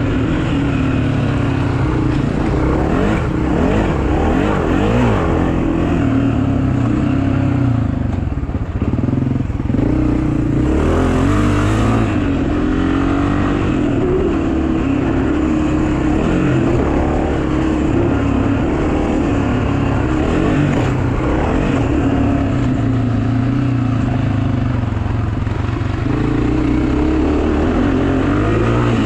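Small pit bike engines running and revving, their pitch rising and falling without a break.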